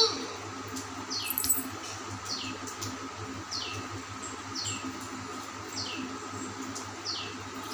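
A bird calling: a short, high call that sweeps downward, repeated about once a second, over a faint steady hum.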